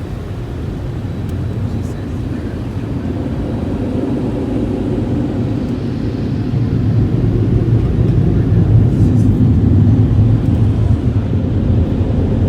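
Automatic tunnel car wash equipment heard from inside the car's cabin: a steady low rumble that grows gradually louder.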